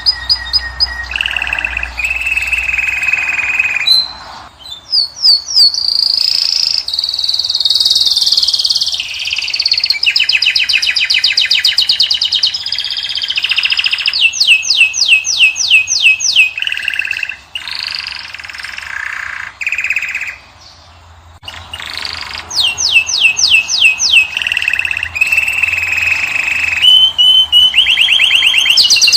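European goldfinch singing a long, varied song of fast trills, twitters and buzzy held notes, with two short pauses past the halfway point.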